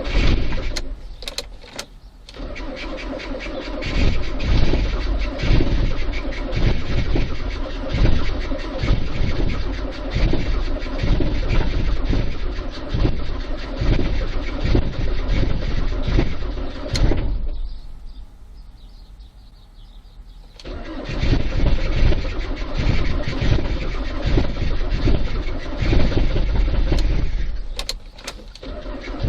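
Diesel engine being cranked over in severe cold: the starter turns it slowly with a regular, laboured beat of compression strokes. Cranking pauses briefly a little past halfway, then resumes.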